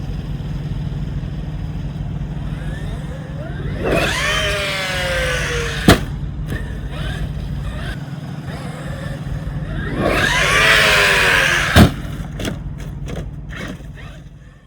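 Traxxas X-Maxx RC truck's electric motor whining up and then falling in pitch as it launches off a jump, followed by a hard smack as it hits the ground; this happens twice, with a few lighter knocks near the end over a steady low rumble.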